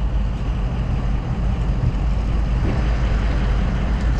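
Steady low rumble of an idling vehicle engine under an even hiss.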